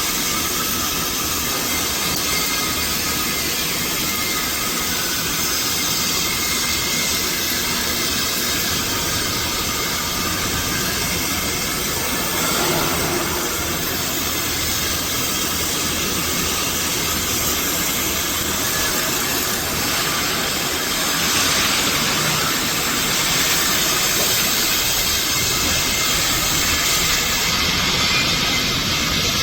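A robot doing CO2 gas-shielded arc welding: the arc gives a steady crackling hiss, a little louder from about two-thirds of the way in.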